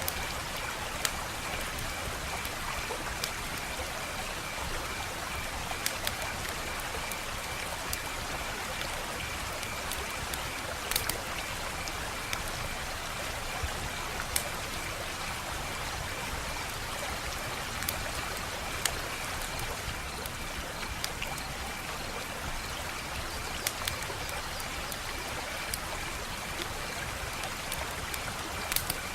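Wood fire crackling: a steady hiss with irregular sharp pops and snaps, a dozen or so standing out. A faint, steady high-pitched pulsing trill runs underneath.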